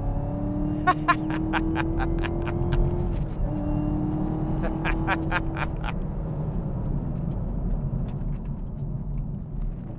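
Chevrolet Camaro ZL1's supercharged V8, heard from inside the cabin, pulls hard with its pitch rising. There is a brief break at a gear change about three seconds in, then it pulls again through the next gear and settles to a steady cruise. The driver laughs in two short bouts over the engine.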